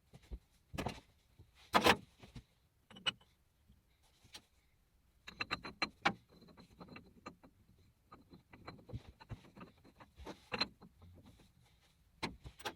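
Irregular clicks and knocks of small parts and tools being handled, with a quick run of rattling clicks about halfway through and a faint steady high whine underneath.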